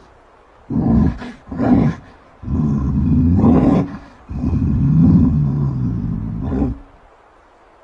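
A bear roaring: two short roars in the first two seconds, then two long roars of about a second and a half and two and a half seconds that waver up and down in pitch.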